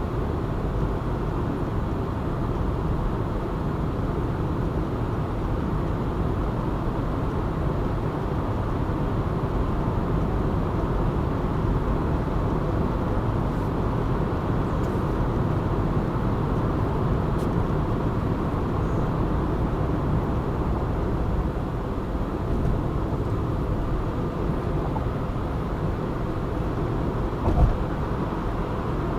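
Car driving at a steady pace: continuous road and engine noise, with one short knock about two seconds before the end.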